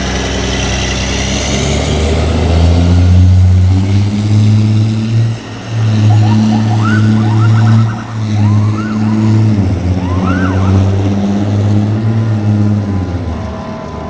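Fire truck engine running loud and hard, its pitch shifting up and down several times as it revs and changes gear. In the middle come a few brief rising-and-falling whoops.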